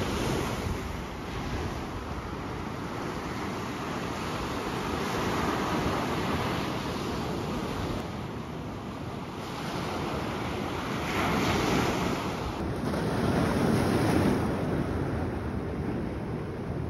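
Sea waves breaking and washing on a beach, the surf swelling and falling several times, with wind buffeting the microphone.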